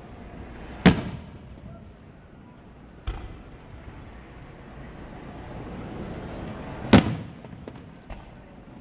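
Aerial firework shells bursting: a loud boom about a second in, a weaker bang about three seconds in, and another loud boom about seven seconds in, each with an echoing tail.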